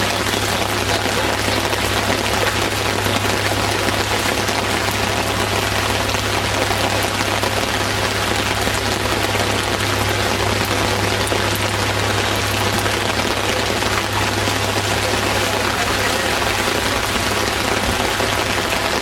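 Heavy rain falling: a steady hiss, with a low hum underneath.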